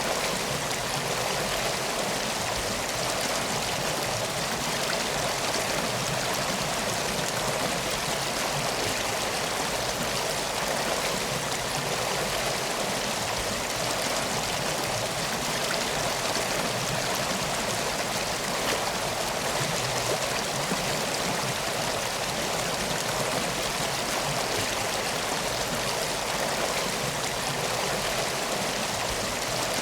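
Steady rush of flowing water, a stream running at an even level with no change.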